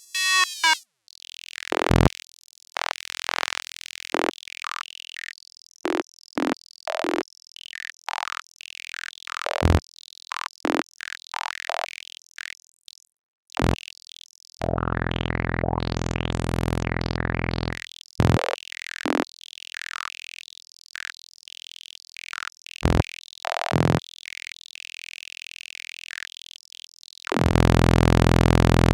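Synthesized R2-D2-style robot sound effects: a quick string of short electronic chirps, clicks and bleeps. A steady low electronic buzz sounds for about three seconds around the middle, and another starts near the end.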